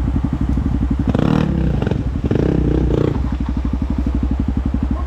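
Dirt bike engine idling with a quick, even beat, the throttle blipped twice about a second in and again about two seconds in before it settles back to idle.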